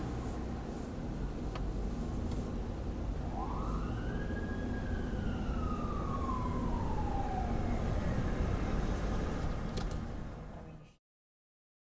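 Fire engine siren giving one wail, rising quickly about three seconds in and then sliding slowly down over the next few seconds, over a steady rumble of engine and road noise, as the engine runs Code 3 to an emergency. All sound cuts off abruptly about a second before the end.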